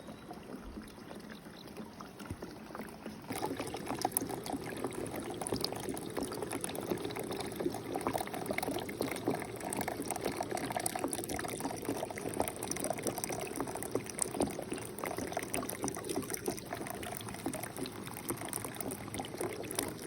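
Sugar syrup pouring from a bucket's honey gate into an internal hive feeder: a steady trickling pour that grows louder about three seconds in.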